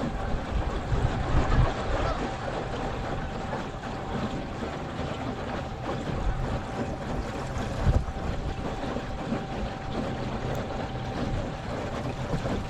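Torqeedo electric outboard motor running at cruising speed, giving a steady thin whine, over the wash of water and wind buffeting the microphone.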